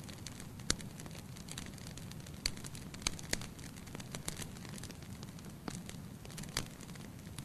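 Wood fire burning in a fireplace: a steady soft hiss and rumble of the flames with irregular sharp pops and crackles, a dozen or so scattered through, a few standing out louder.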